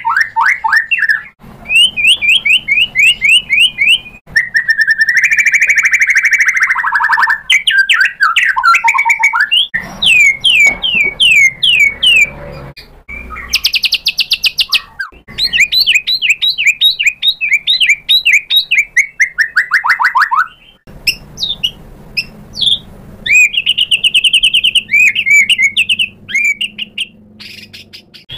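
White-rumped shama singing loudly in a fighting style: phrase after phrase of rapid runs of repeated sweeping notes and trills, separated by short breaks.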